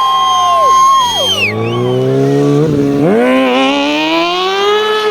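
Motorcycle engine revving hard: held at high revs, dropping about a second in, then climbing again in a long rising run with a brief dip partway, and falling off near the end.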